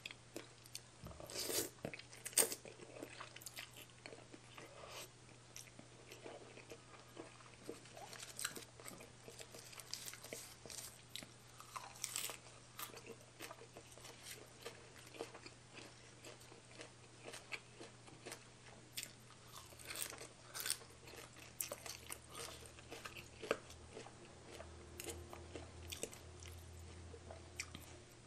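A person chewing and biting mouthfuls of spicy baby cuttlefish salad with noodles and raw vegetables: irregular crisp crunches and mouth clicks, none of them regular.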